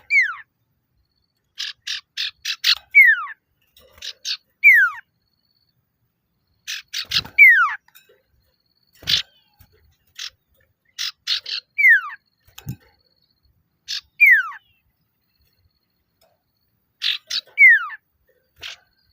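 Male common iora (sirtu/cipoh) giving its challenge call: quick clusters of sharp chipping notes, each followed by a clear whistle that slides steeply down. The phrase repeats about seven times, every two to three seconds.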